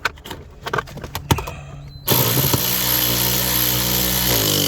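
A few light clicks and knocks, then about two seconds in a power drill runs steadily for about two and a half seconds, driving in a gear shifter mounting bolt. Its pitch drops as it winds down and stops near the end.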